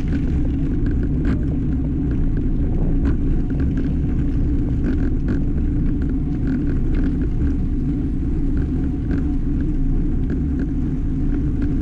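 Steady wind and road rumble on the microphone of a camera riding along on a road bicycle, with faint short clicks now and then.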